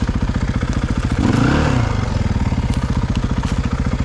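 Off-road vehicle engine running close by with a fast, even firing beat; about a second and a half in, an engine note briefly rises and falls.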